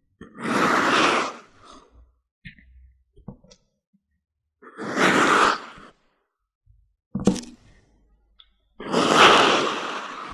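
Kinetic sand being worked by hand or tool: three rushing noises about four seconds apart, each a little over a second long, with a single sharp click between the second and third.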